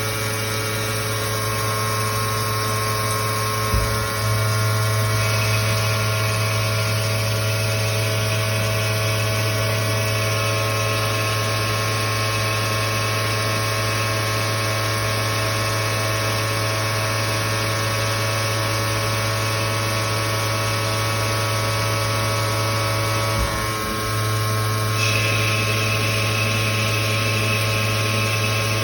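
2007 Victor V-Turn 36 CNC lathe running: a steady machine hum with several whining tones. A short clunk comes about four seconds in and again about five seconds before the end, and after each the whine shifts to a new tone.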